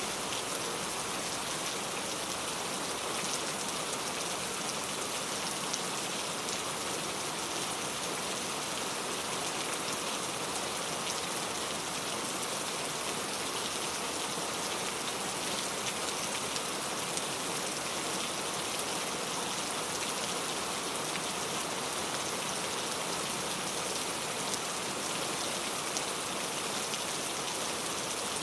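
Steady rain falling, an even hiss of many drops with fine patter of individual drops hitting surfaces.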